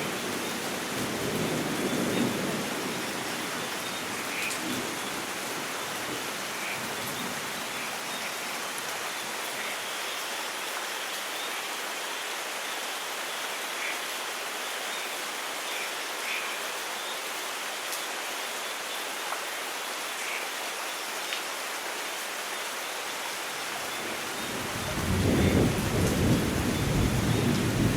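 Steady rain falling, with scattered drops ticking. A low thunder rumble dies away in the first few seconds, and near the end a new, louder rumble of thunder rolls in.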